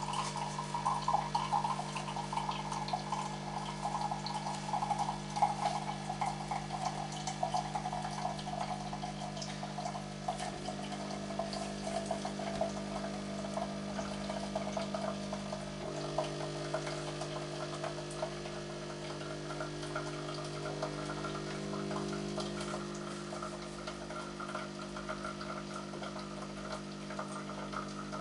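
Coffee being made: liquid running and filling, over a steady electric hum from the machine whose pitch shifts a little about a third of the way through and again past halfway.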